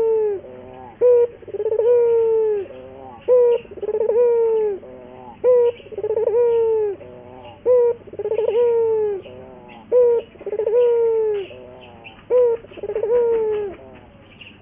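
Puter dove cooing over and over, each phrase a short sharp note followed by a longer coo that falls in pitch, repeated about every two seconds.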